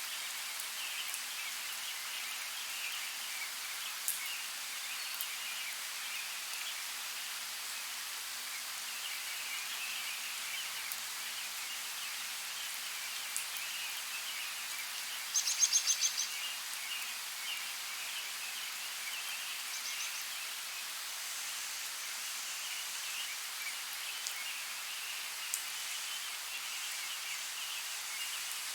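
Light rain falling in a forest, a steady hiss with a few single drops ticking, and birds chirping faintly. About halfway through, a bird gives one short, rapid trill that stands out as the loudest sound.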